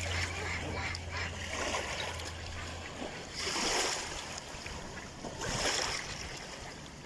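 Ducks splashing and paddling in water, with two louder splashes about halfway through and again near the end. A low steady hum runs under the first half and then stops.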